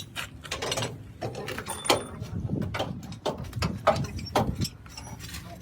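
Irregular knocks and clanks of metal parts being handled in a workshop, several strikes a second at uneven spacing.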